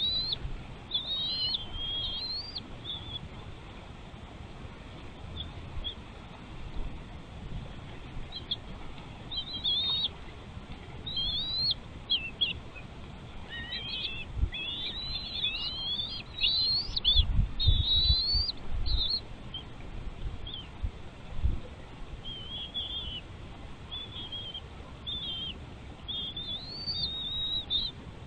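Bird chirping: many short, high, quickly rising and falling chirps in bursts, thickest in the middle stretch. A few low thumps come through about halfway in.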